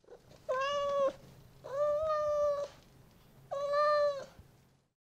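Domestic cat meowing three times, each meow holding a steady pitch; the middle one is the longest, about a second.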